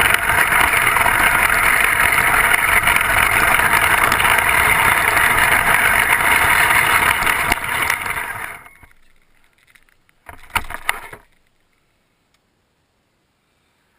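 Kyosho Blizzard radio-controlled tracked snow vehicle running, a steady loud whir that fades away about eight to nine seconds in. About ten seconds in there is a brief clattering burst with a few sharp clicks, then near silence.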